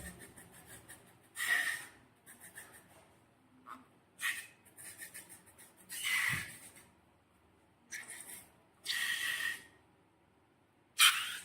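Slime being squeezed by hand, giving a series of short, airy squelches about every two seconds, the last one the loudest.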